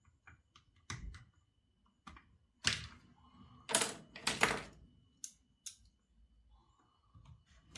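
Irregular clicks, knocks and light clatter of small metal chainsaw parts and hand tools being handled during disassembly, with the strongest knocks clustered in the middle.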